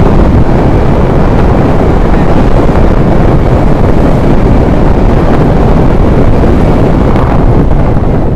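Loud, steady wind noise buffeting the microphone while travelling, heaviest at the low end and without a break.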